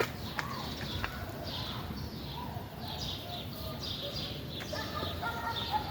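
Small birds chirping outdoors, many short high calls over a steady low background noise. Near the end a lower-pitched call with several harmonics joins in.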